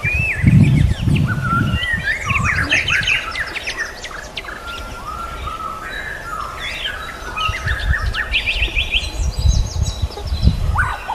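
Songbirds singing a busy, varied song of whistled phrases, chirps and rapid trills, with a low rumbling noise underneath about a second in and again near the end.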